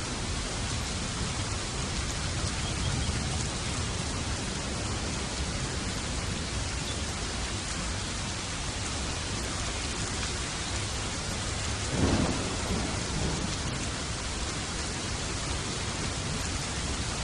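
Steady rain with thunder: a low rumble swells and fades a few seconds in, and about twelve seconds in a sharper, louder thunderclap breaks and rumbles away under the continuous rain.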